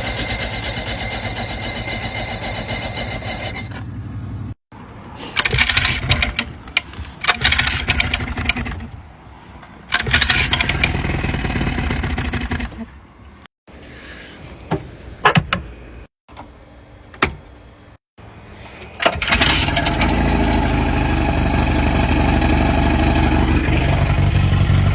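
Electric starter cranking an old boat engine over in several short, separate attempts, the barn-find motor's first tries after sitting and being given fresh oil. Near the end it catches and runs steadily.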